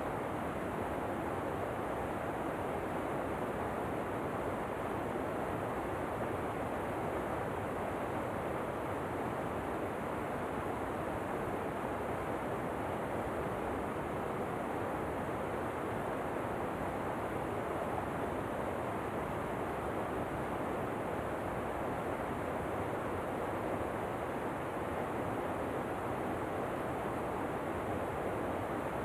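Steady rushing of a waterfall: an even, unbroken noise with no changes.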